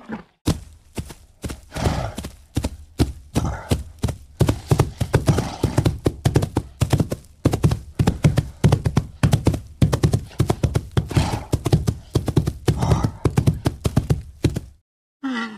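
White rhinoceros grazing: a fast, steady run of crunching, tearing sounds as it crops dry grass, several a second, stopping abruptly near the end.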